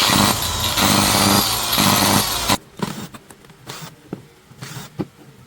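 Electric angle grinder motor running loudly for about two and a half seconds, then cutting off abruptly, followed by a few light clicks and taps of handling.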